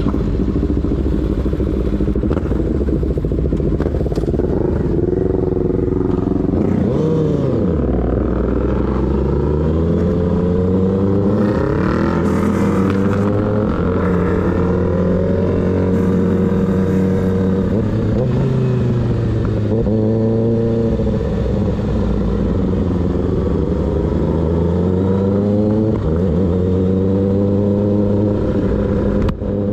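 Kawasaki ZX-6R inline-four with a baffle-less M4 GP19 slip-on exhaust, ridden: the engine note drops steeply about seven seconds in as it slows, then pulls away again, climbing and falling in steps through several gear changes.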